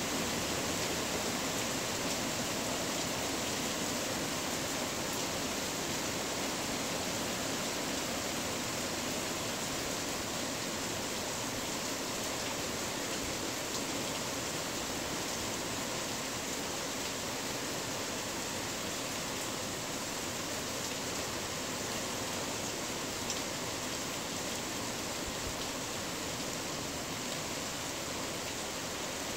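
Rain falling steadily on a tin roof, a dense even hiss of drops with the odd faint tick of a single drop.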